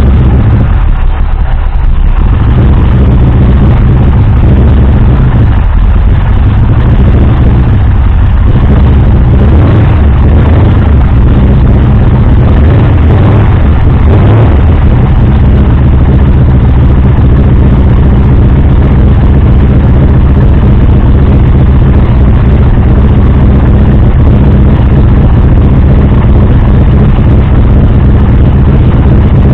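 A 503 cubic-inch Ford big-block V8 with a big solid-lifter cam, running at idle shortly after a cold start, its exhaust open at the headers. The running is a little uneven over the first several seconds, then settles to a steady idle.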